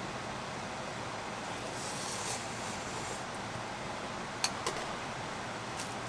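Steady hiss of rain falling, with a few sharp clicks about four and a half seconds in and again near the end.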